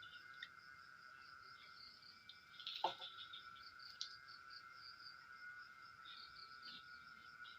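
Faint insect chorus, crickets: a steady high drone with rapid pulsing chirps above it. About three seconds in there is a brief, louder sound that falls in pitch.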